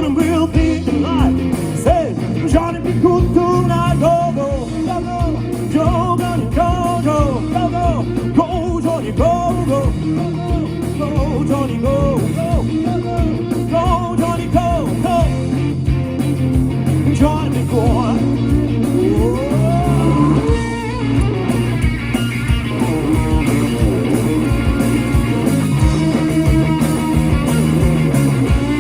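Live rock and roll band playing: an electric guitar lead with many quick string bends over bass and drums.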